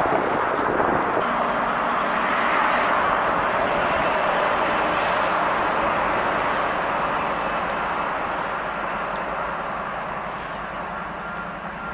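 Steady rushing noise of a passing vehicle, possibly rail traffic, which slowly fades over the last few seconds.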